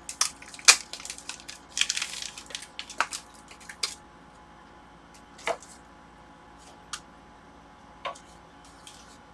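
Sharp clicks and taps of tools and parts being handled on a workbench, several in quick succession over the first few seconds, then three single clicks spaced out.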